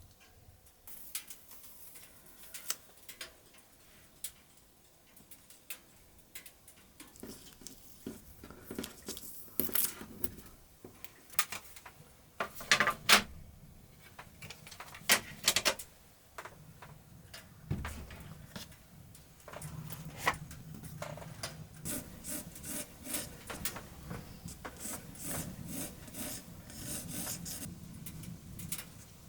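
Paintbrush rubbing and scratching across paper in short, irregular strokes, with a few louder strokes near the middle. The strokes run together into steadier rubbing in the second half.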